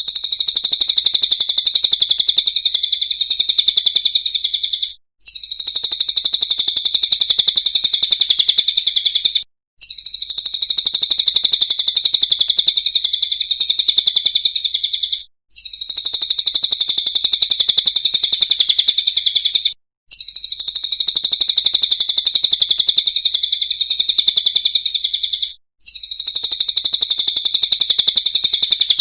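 Recorded bird song: a loud, continuous, very rapid high-pitched trill that breaks off abruptly for a fraction of a second every four to five seconds and starts again, repeating like a loop.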